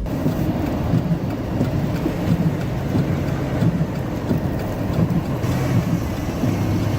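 A vehicle driving on a snowy road: steady engine and road rumble.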